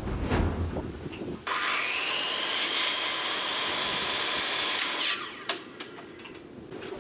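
Power tool running on wood or bamboo for about three and a half seconds, with a steady high whine. It starts abruptly about a second and a half in and stops near five seconds.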